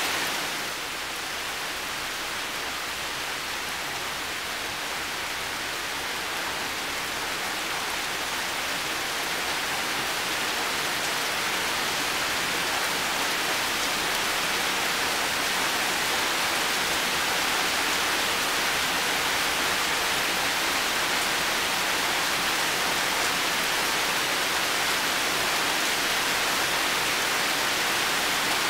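Heavy rain falling in a garden: a steady, dense hiss of rainfall that softens slightly about a second in, then slowly swells back.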